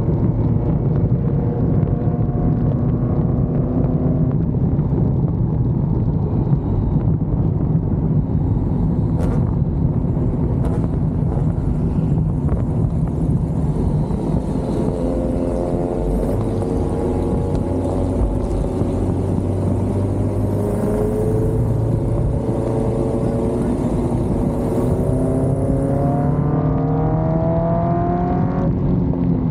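A sports car's V8 engine running under way with wind and road noise. It holds steady at first and fades in the middle, then climbs slowly in pitch under acceleration from about halfway, and the pitch drops off sharply just before the end.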